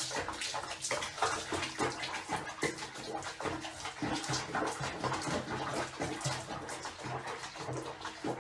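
Water splashing and sloshing in a tub or basin, in many quick irregular splashes.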